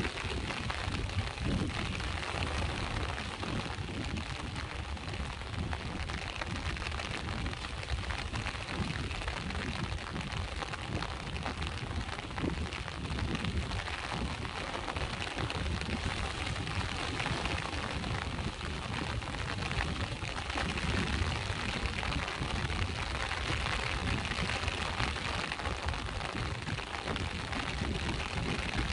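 Steady rain hissing over the continuous low wash of sea waves on the shore, an even, unbroken noise with no separate events.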